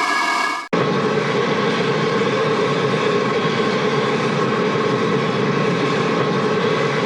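Hanna-Barbera cartoon sound effects: a steady effect with several held tones cuts off abruptly under a second in, and a steady, noisy mechanical drone starts at once and holds level.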